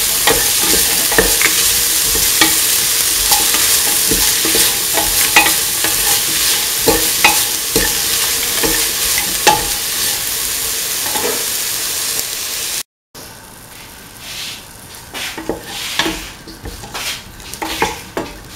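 Chopped vegetables sizzling as they sauté in oil in a steel pan, with a spoon scraping and clacking against the pan as they are stirred. The loud sizzle stops suddenly about two-thirds of the way through. After that come quieter, separate stirring scrapes.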